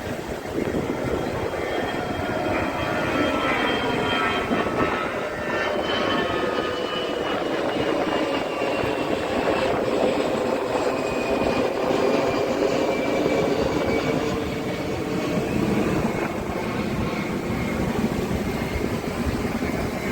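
Steady, loud engine drone with rushing noise, a faint whine in it falling slowly in pitch.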